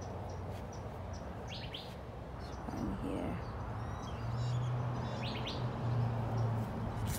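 Small birds chirping, a few short high chirps scattered through the seconds, over outdoor background noise. A low steady hum comes in about halfway through.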